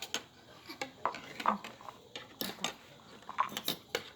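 Fork and spoon clinking and scraping against a bowl while noodles are eaten: a run of short, sharp, irregularly spaced clinks.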